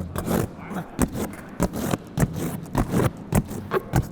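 Knife slicing through and tearing a large cardboard box, a rapid irregular run of scraping rips.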